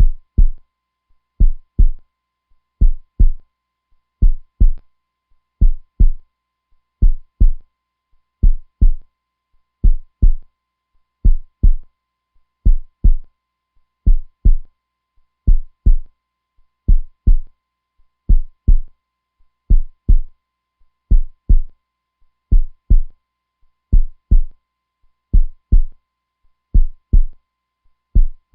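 Heartbeat sound, a steady slow lub-dub: pairs of deep, muffled thumps repeating evenly about every second and a half.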